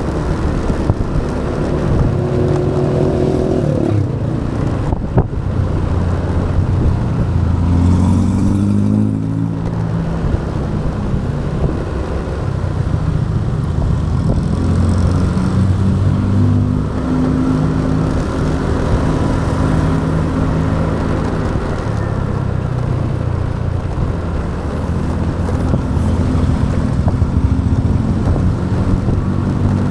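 Motorbike engine running while being ridden. The engine pitch rises and falls a few times with the throttle, over steady road and wind noise.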